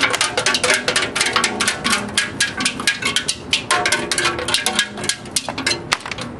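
Loose screws rattling and clanking inside a metal motorcycle gas tank as it is shaken, a quick irregular run of metallic clicks with a slight ring. The screws are the tumbling media used to knock rust off the tank's inside, and these are the last of them being shaken out.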